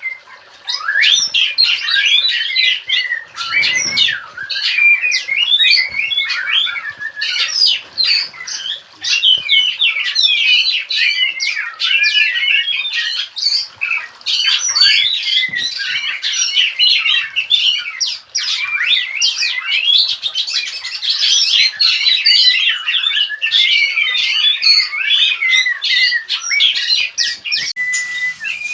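Oriental magpie-robins calling and singing continuously: a dense, unbroken run of varied chirps, squawks and whistles.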